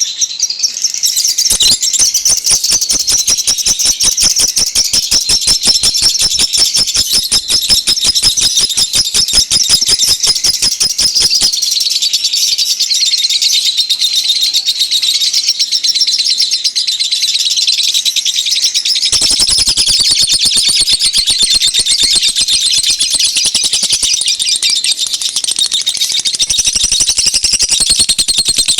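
Bird-lure recording of small birds chirping: a loud, dense, rapid string of high-pitched chirps that goes on without pause.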